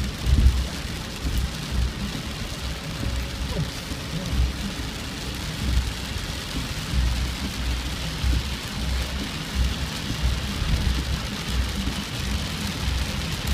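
Rain falling steadily, an even hiss, with an uneven low rumble underneath that rises and falls throughout.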